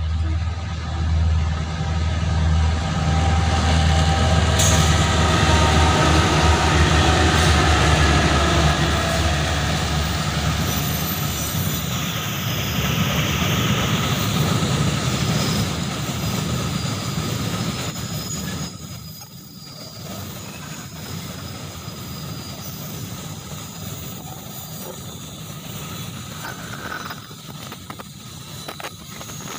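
Babaranjang coal train passing: the diesel locomotive's engine hum builds and goes by in the first ten seconds or so. Then comes the steady noise of the long line of coal wagons' wheels running over the rails, somewhat quieter in the last ten seconds.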